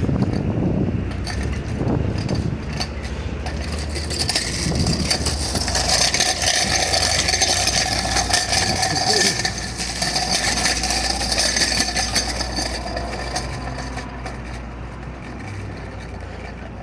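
Street traffic: a motor vehicle drives past, its sound building through the middle with a faint steady whine, then fading toward the end.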